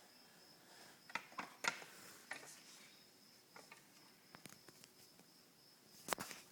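Faint clicks and taps, a quick cluster about a second in, a few scattered ticks, and a sharp double click near the end, over a cricket's steady high-pitched trill.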